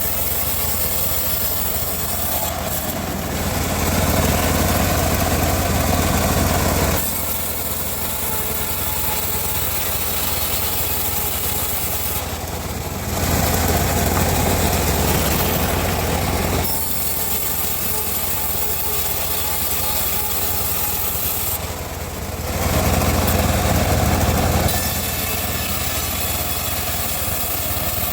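Homemade bandsaw mill running steadily while sawing teak, with three louder stretches of a few seconds each as the blade works through the log.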